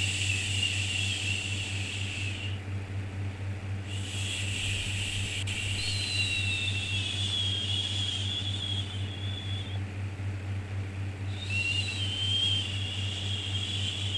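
Long, drawn-out 'shhh' shushing sounds of the kind used to soothe a baby, three in turn with short gaps between them, over a steady low hum.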